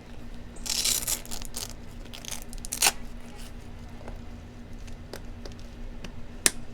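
Motocross boot straps and buckles being adjusted and fastened: a rasping rustle about a second in, a few lighter scrapes, then two sharp clicks, near three seconds and near the end.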